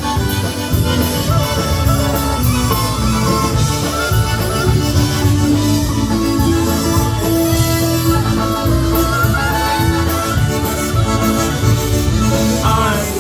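Live polka band playing an instrumental passage with a steady beat.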